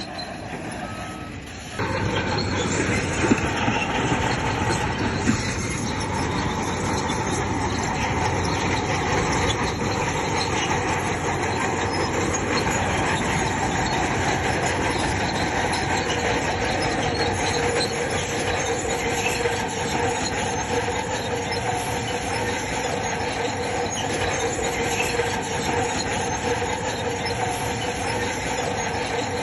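Crawler bulldozer working, its engine running with a steady squeal and clatter from the steel tracks. The sound gets sharply louder about two seconds in and then stays level.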